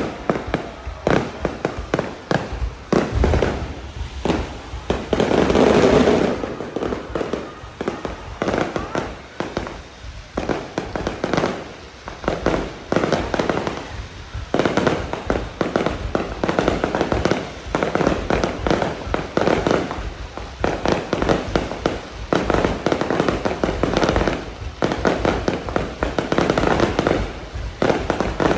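Fireworks display going off in a dense, continuous volley of sharp bangs, one burst after another.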